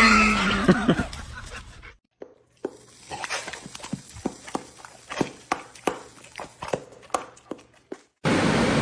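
Light, irregular footstep-like taps, about two to three a second. A steady rushing noise cuts in suddenly near the end.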